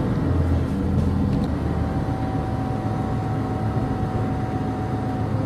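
Regional passenger train running, heard from inside the carriage: a steady low engine and rolling hum, with a faint thin whine held through the middle.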